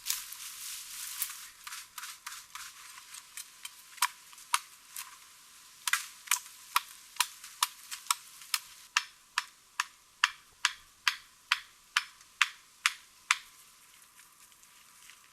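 A tool striking wood in a steady run of sharp knocks, about two a second, lasting several seconds, after a stretch of rustling and scattered taps.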